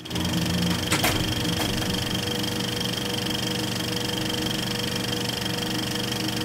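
Logo sound effect: a steady machine-like whirring with a fine rattle and a held high whine. Two sharp clicks come about a second in, the second just after the first.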